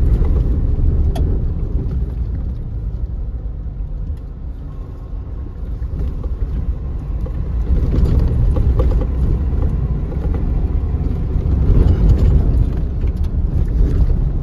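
Changan Hunter diesel pickup driving over a rough off-road track: a steady low rumble of engine and tyres from inside the cab, easing for a few seconds in the middle and growing louder again in the second half.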